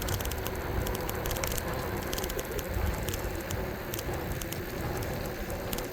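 Riding noise of an e-bike under way: a steady, uneven low rumble of wind buffeting the microphone and tyres rolling, with scattered crackling clicks.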